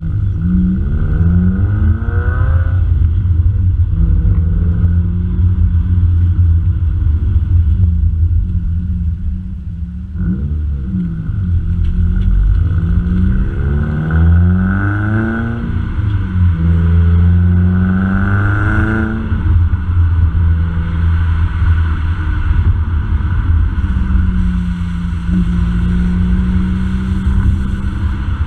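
Subaru WRX's turbocharged flat-four engine through an aftermarket cat-back exhaust, driving with a deep steady drone. Several times the pitch rises as the car accelerates through a gear, then drops back at the shift.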